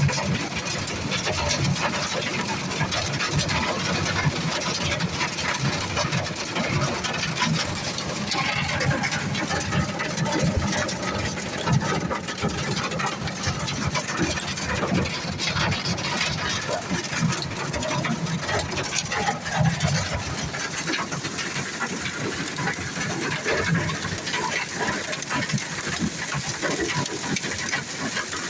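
Hail and heavy rain pelting down: a dense, unbroken clatter of impacts.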